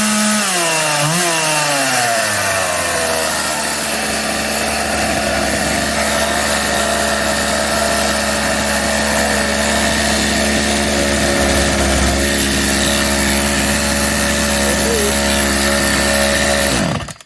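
Craftsman 358.351380 chainsaw's two-stroke engine revving up and down a few times, then held steady at high revs, running cleanly after its carburettor tuning screws have been adjusted. Near the end it winds down and shuts off.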